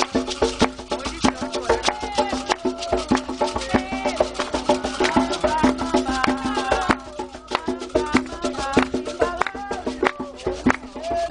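Candomblé ritual music: hand drums and a bell beat a fast, steady rhythm, with voices singing over it.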